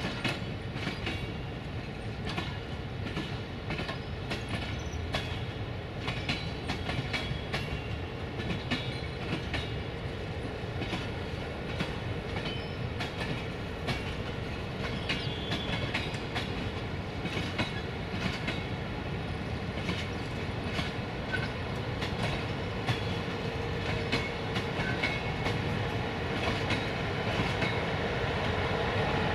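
Train moving slowly through the station, its wheels clicking irregularly over rail joints and points, over a steady rumble and hum that grows louder near the end.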